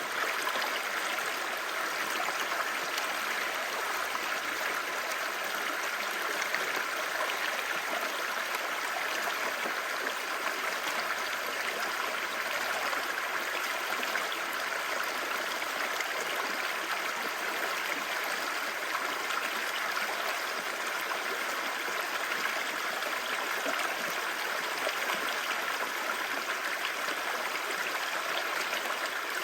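Clear stream babbling: a steady, even rush of flowing water.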